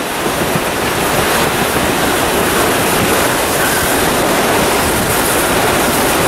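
Steady rushing noise of a steam-hauled train on the move, heard from an open carriage window, with wind buffeting the microphone.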